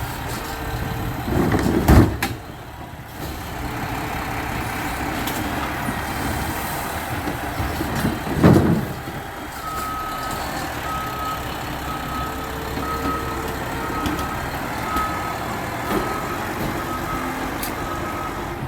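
Garbage truck engine running, with two loud short bursts near the start and the middle. Then its reversing alarm starts beeping steadily, about twice a second.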